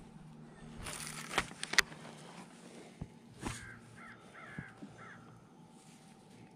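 A few sharp knocks early on, then a bird calling: three short, harsh calls in quick succession about halfway through.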